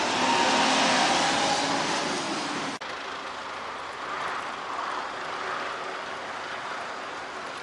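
Street traffic noise: a vehicle passing close by, then an abrupt cut about three seconds in to a quieter, steady rush of traffic.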